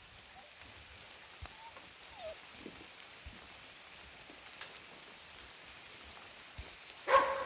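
Light rain pattering steadily, with a few faint drips and ticks. Near the end a dog gives a loud bark.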